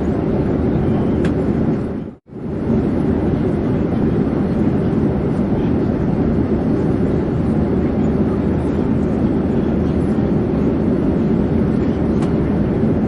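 Steady, even drone of an airplane in flight, a deep rushing noise, which cuts out for a split second about two seconds in and comes straight back.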